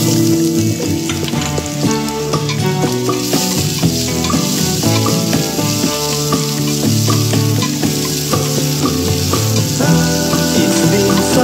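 Onions and ginger sizzling in hot oil in a stainless steel pot, stirred with a wooden spoon; the sizzle grows denser about three seconds in. Background music with changing notes plays over it.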